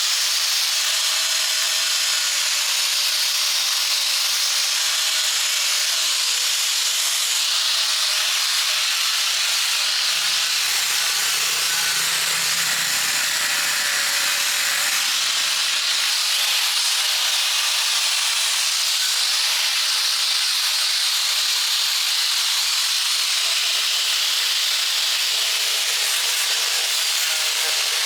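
A steady, loud hiss that runs without a break, with a faint low hum swelling briefly around the middle.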